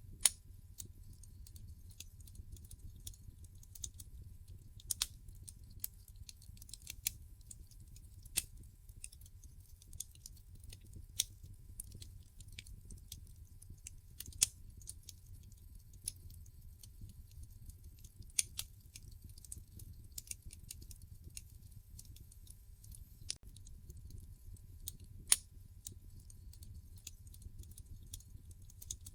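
Wood fire crackling in a fireplace: irregular sharp pops and snaps over a low steady rumble, with two louder pops, one just after the start and one about 25 seconds in.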